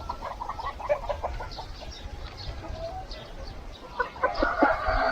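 Chickens clucking in a quick run of short notes, then about four seconds in a louder, drawn-out call begins, most like a rooster starting to crow.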